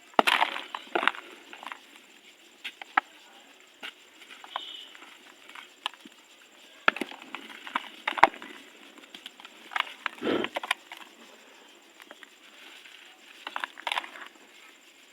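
Dry, dusty, crunchy material crumbling in a tub: scattered crisp crunches and crackles with quiet gaps between them, a dense cluster at the very start and single louder crunches later on.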